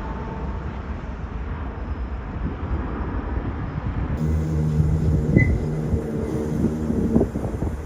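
Low rumble of a jet airliner's engines. About four seconds in the sound changes to a steady low hum with a few short thumps.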